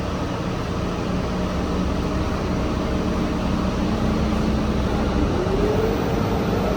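City bus running, a steady low hum with a whine that starts rising in pitch about five seconds in as the bus picks up speed.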